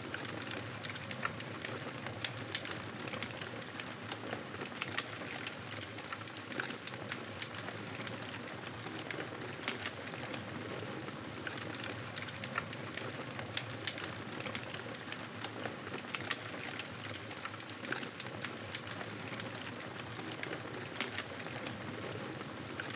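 Wood campfire crackling: a steady hiss with frequent sharp, irregular pops and snaps.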